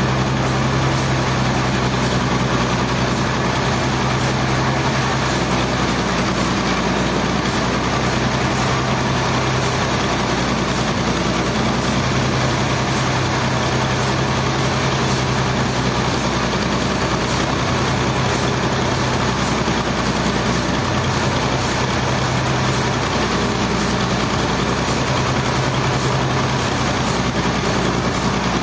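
Heavy machinery engine running steadily, a constant low drone with a dense mechanical noise over it and no change in pace.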